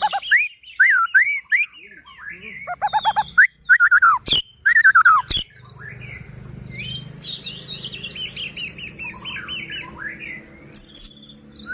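White-rumped shama singing a varied song: loud rising and falling whistles and a fast trill, two sharp clicks near the middle, then a quick run of short descending notes.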